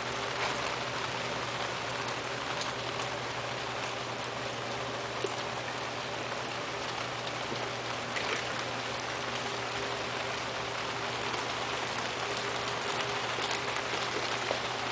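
Steady hiss of falling water, with a low steady hum beneath it.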